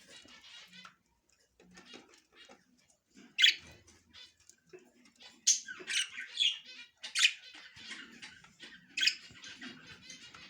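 Budgerigars chattering with fast raspy chirps, broken by several louder, sharp calls from about a third of the way in.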